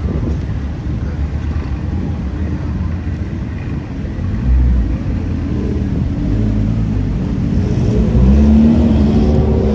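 A car engine running with a low rumble, rising in pitch as it accelerates about eight seconds in.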